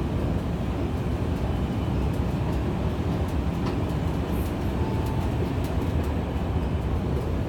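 Steady low mechanical rumble of metro station machinery, with a few faint ticks.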